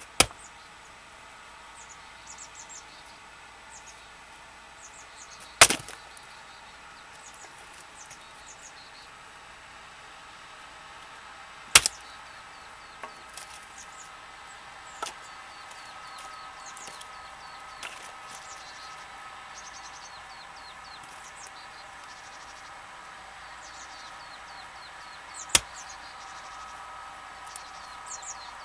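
Axe strikes on a round of unseasoned willow: four sharp, loud hits several seconds apart, with fainter knocks between them. The wood is damp right through, so the blows do not split it. Birds chirp in the background.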